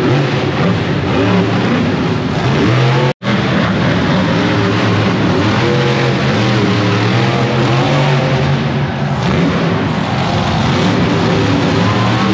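Monster truck engines revving loud and hard, the pitch rising and falling with the throttle. The sound cuts out for a split second about three seconds in.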